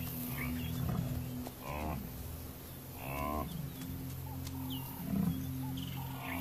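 African buffalo lowing: two short calls, about a second and a half apart, over a steady low hum.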